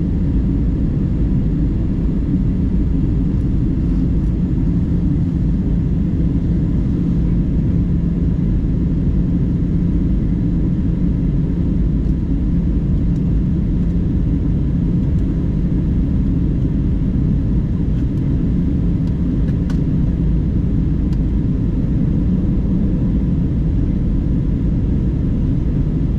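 Steady low rumble of an airliner's jet engines and airflow heard inside the passenger cabin during the descent, with a faint steady hum in it.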